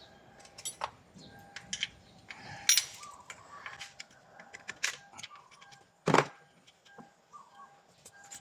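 Hand tools and parts clicking and clinking while being handled, with one heavier clunk about six seconds in.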